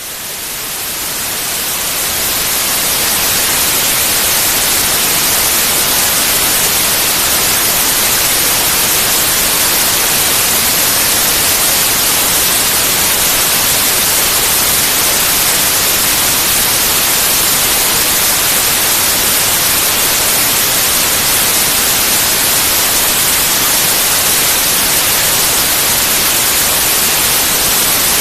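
Synthetic white noise: an even, bright hiss with no tones or events, swelling up over the first few seconds and then holding steady.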